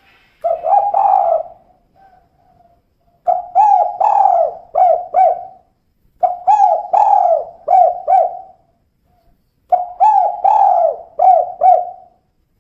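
Female spotted dove (tekukur) cooing. It gives four phrases of low, bending coos, each a second or two long with short gaps between: a short one near the start, then three longer phrases of about five notes each.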